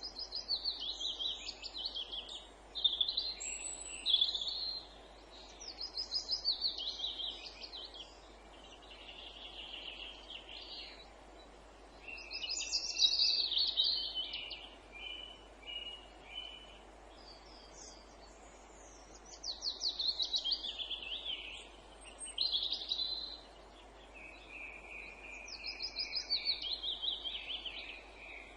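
Songbirds singing in woodland: a run of fast, high trilled phrases that fall in pitch, repeated about every six to seven seconds, with other short calls between them over a faint steady background hiss.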